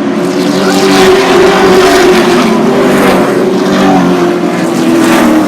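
Super Truck racing trucks' engines running loud at racing speed, several engine notes heard together, with slight rises and falls in pitch.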